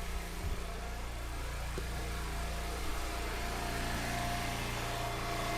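Engine of a firewood splitter running steadily at a constant speed, with a faint high whine that grows toward the end.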